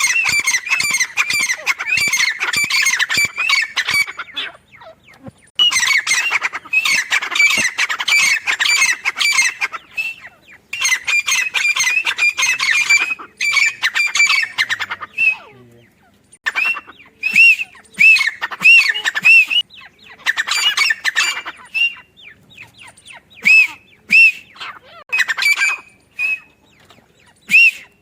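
Grey francolin calling in loud bouts of rapid, repeated ringing notes, three long runs in the first half. After that come shorter, spaced-out series of single arched notes.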